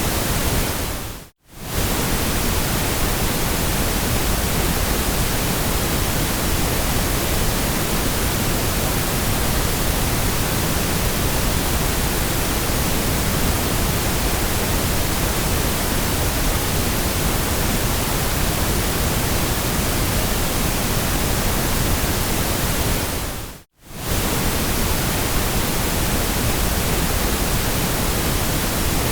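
Steady electronic white noise, an even hiss spread from deep rumble up to high treble. It fades briefly to silence and back twice, about a second in and again near the end.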